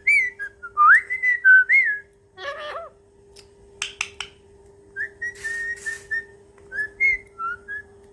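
Pet parrot whistling a series of short notes that slide up and down, in two bouts with a few clicks in between. A steady low hum runs underneath.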